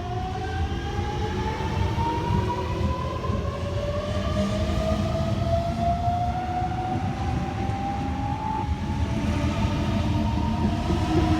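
Sydney Trains Millennium (M-set) electric train accelerating away from the platform, its traction motor whine rising steadily in pitch over the rumble of the wheels, with a shift in the whine's pitch about three-quarters of the way through.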